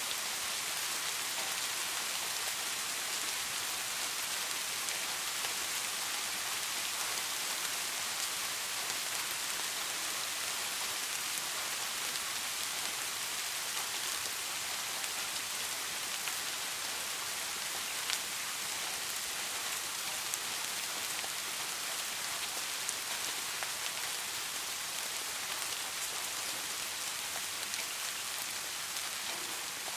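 Steady rain falling, an even hiss of many drops, with a few distinct drops ticking now and then.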